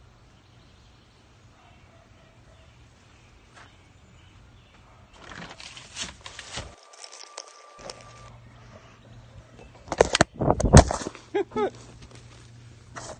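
Footsteps and rustling close to the phone, then loud knocks and rubbing as the phone is picked up and handled about ten seconds in, followed by a short squeak.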